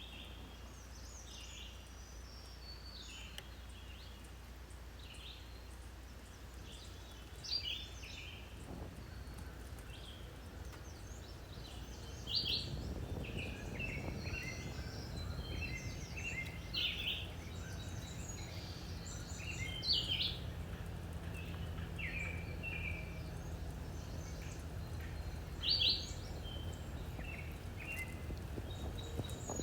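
Several small birds chirping and singing in short, repeated calls, over a low steady rumble that grows louder about twelve seconds in.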